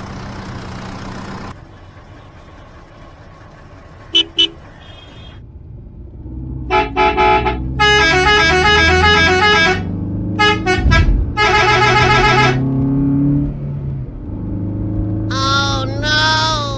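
Vehicle horn honks over a steady engine hum. There is a quick double toot about four seconds in, then a run of short beeps and two longer pulsing horn blasts, and near the end two wavering toots.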